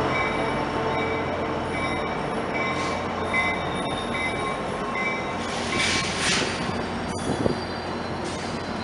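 Bilevel passenger train cars rolling slowly through the station, the wheels squealing in thin, on-and-off high tones over a steady rumble. There are brief hisses about three and six seconds in, and a sharp click a little after seven seconds.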